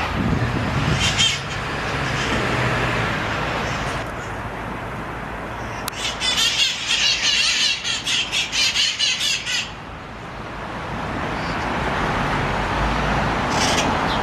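Wild red-masked parakeets (San Francisco's feral parrot flock) screeching: a short call about a second in, a dense run of rapid harsh squawks from about six to nearly ten seconds in, and another short call near the end. Steady city traffic runs underneath.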